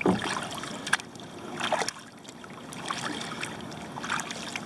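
Kayak paddle blades dipping into flat lake water, with splashes and drips repeating roughly once a second as the strokes go on.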